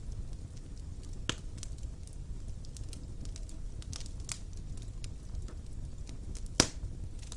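Fire burning in a fireplace: a steady low rumble of flames with scattered sharp crackles and pops, one loud pop near the end.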